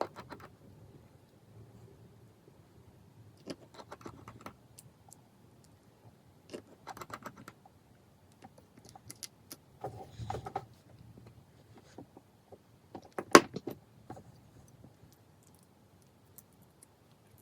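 Light clicks, taps and small rattles of tools and small phone parts being handled during an iPhone 5s repair, in several short clusters with one sharper click about three quarters of the way through.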